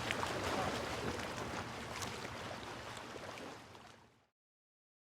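Motorboat underway: steady rush of water and wind with a low engine hum, fading out about four seconds in.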